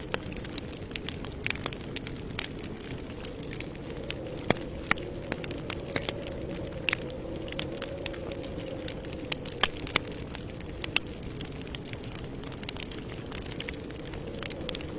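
Wood campfire crackling: irregular sharp pops and snaps, a few louder ones near the middle, over a steady low rumble of the burning fire.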